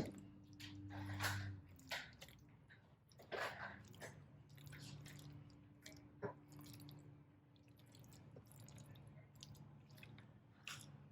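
Spoon stirring ravioli through a thick sauce in a pan, with soft wet squishing and light scattered clicks of the utensil against the pan, over a faint steady low hum.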